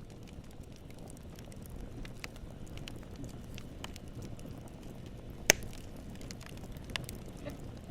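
Wood fire burning, with a steady low rumble of flames and scattered crackles and pops from the burning wood. One much louder crack comes about five and a half seconds in, and a smaller one about a second and a half later.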